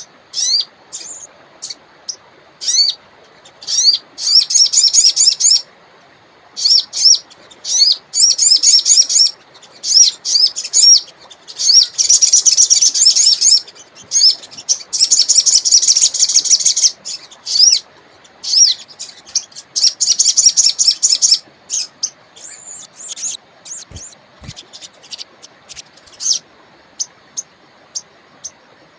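Sogon (a sunbird) singing in the wild: rapid, high-pitched chirping trills repeated in bursts of a second or two, with short single chirps between them and near the end. Under them runs a faint steady river hiss.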